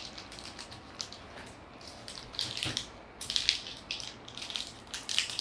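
Plastic candy packaging crinkling and rustling in the hands as it is opened, with irregular sharp crackles that grow busier about halfway through.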